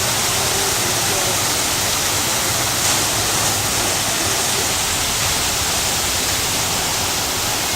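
Steady rush of falling water, as at a water-park waterfall, a constant even roar with no breaks.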